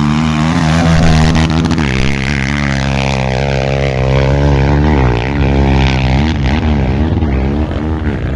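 Off-road trail motorcycle engine running hard close by, its pitch rising and falling as the throttle is worked.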